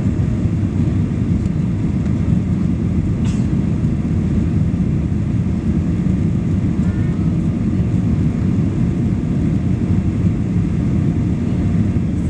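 Boeing 737 Next Generation airliner running with a steady, loud low rumble that neither rises nor falls.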